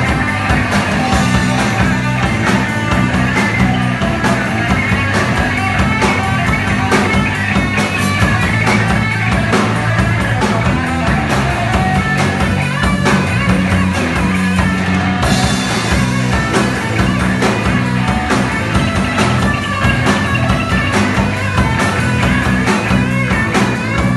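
Live rock band playing an instrumental passage, with guitar, bass and drum kit keeping a steady beat. The high end gets brighter about fifteen seconds in.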